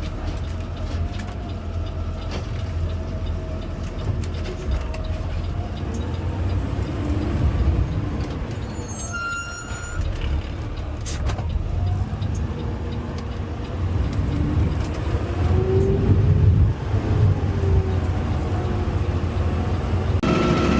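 Garbage truck running, its engine revving up and down, with the pitch rising and falling, as it drives the hydraulic automated arm that grips, lifts and dumps a cart.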